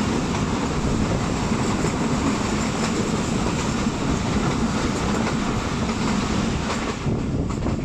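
Moving passenger train heard from aboard: a steady rumble with the clatter of the wheels over the rails.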